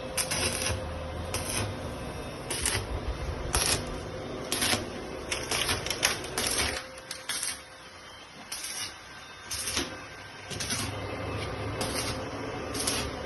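Irregular sharp clicks and knocks, roughly one or two a second, over a low steady rumble that drops away for a few seconds in the middle.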